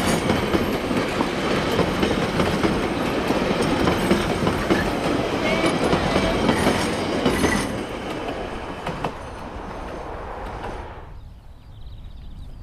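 Train of passenger carriages rolling past close by, wheels running on the rails. The sound fades as the last wagon goes by, then drops suddenly about eleven seconds in to a much quieter open-country background.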